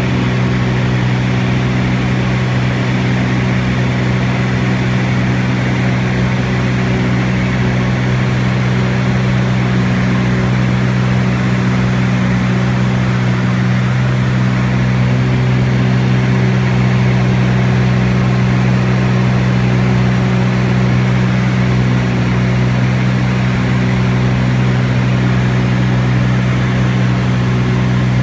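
T-34 Mentor's piston engine and propeller droning at a steady, unchanging power setting, loud and close as if heard from on board.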